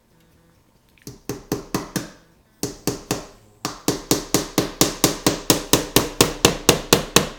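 Hammer driving 1 1/4-inch finishing nails into the wooden top bar and end bars of a beehive frame. A few spaced taps start about a second in, then after a short pause a steady run of about four blows a second.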